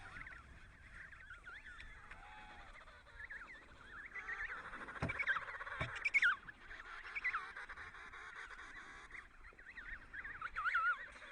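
Penguin colony calling: many overlapping short, wavering honking calls, with two sharp knocks about five and six seconds in.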